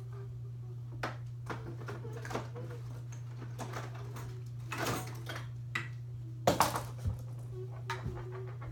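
Scattered light knocks and clatters of handled household objects, the loudest cluster a little past six seconds in, over a steady low hum.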